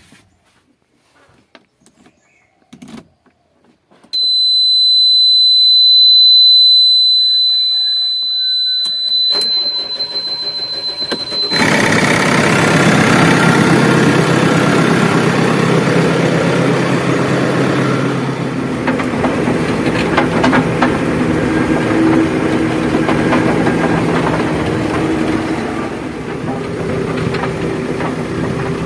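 Heavy machine's diesel engine being started: a steady, high electronic warning beep sounds for several seconds, the engine cranks, then catches and runs steadily at idle.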